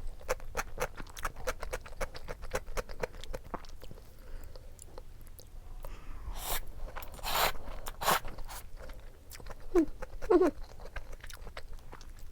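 Close-up eating sounds: a person chewing noodles and dumplings with quick wet mouth clicks, then a few short noisy slurp-like bursts partway through. Two brief squeaky sounds near the end are the loudest moments.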